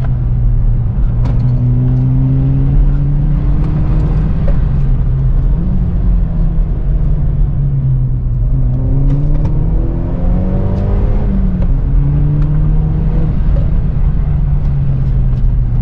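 2020 Hyundai Veloster N's turbocharged four-cylinder engine running under load while driving, its note holding steady, then rising and falling with the revs several times, over a constant low road rumble.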